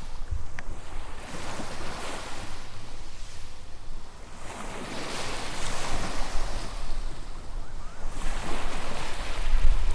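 Small waves breaking and washing up a sandy beach, swelling and falling back about three times, with a low rumble of wind on the microphone that grows near the end.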